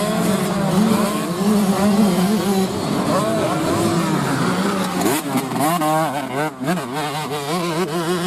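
Several racing motorcycle engines running and revving, their pitch rising and falling repeatedly, with quick rising revs a little past the middle.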